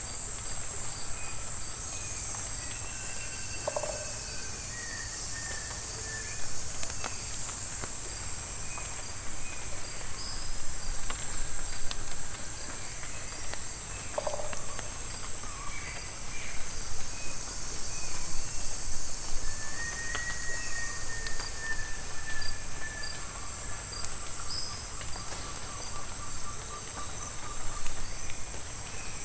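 Tropical rainforest ambience: a steady high-pitched insect drone, with scattered short bird whistles, a trill, and two brief lower calls. Light raindrops tap throughout.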